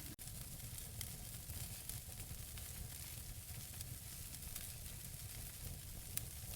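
Burning wood logs in a fireplace crackling and hissing steadily over a low rumble, with scattered sharp pops; the sharpest pop comes near the end. There is a split-second dropout just after the start.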